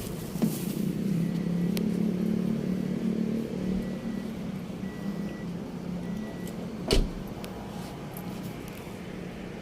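A motor vehicle engine running with a low, steady hum that is strongest in the first few seconds and then fades. There is a single sharp knock about seven seconds in.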